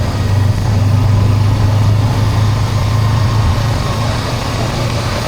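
Honda CB400X's parallel-twin engine running steadily with a low, even hum.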